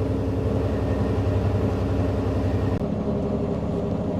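Mack semi truck's diesel engine running steadily under way. Its note changes about three seconds in, and it gets quieter near the end.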